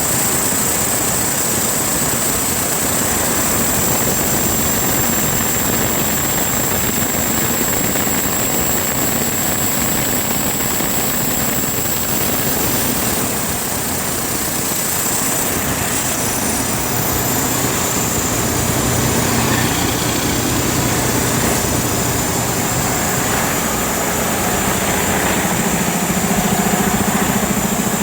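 Detroit Diesel DD13 inline-six truck diesel engine running steadily on a test run, with a steady high whine over the engine note. It gets a little louder in the last few seconds.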